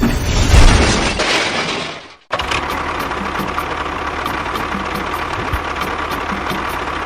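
A small machine's motor running steadily. Before that, a louder rushing, clattering noise breaks off abruptly about two seconds in.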